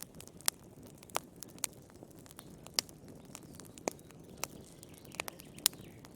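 Fire burning in a fireplace, crackling with irregular sharp pops over a soft steady hiss.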